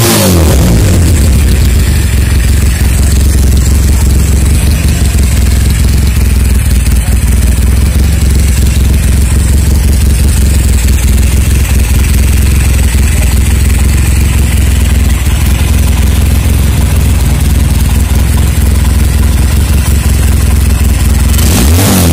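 Tiger motorcycle's 400cc parallel-twin engine idling steadily through its exhaust, picking up revs right at the end.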